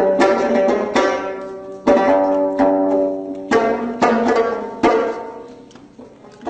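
Instrumental plucked-string music, no voice: sharp plucked notes and chords struck a second or so apart, each ringing out and decaying, the last fading low toward the end before the playing resumes.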